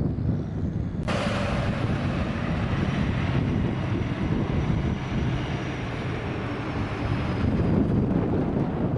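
Wind buffeting the microphone with a constant low rumble, joined by a loud steady hiss that starts abruptly about a second in and stops near the end.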